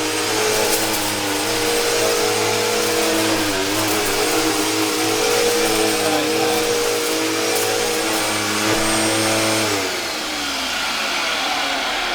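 Eureka vacuum cleaner motor running steadily, its pitch dipping briefly a couple of times. About ten seconds in it is switched off and winds down with a falling whine.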